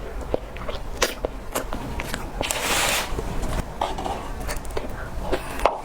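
Close-miked chewing and mouth sounds from eating cake: scattered wet clicks and smacks, with a brief hiss about two and a half seconds in.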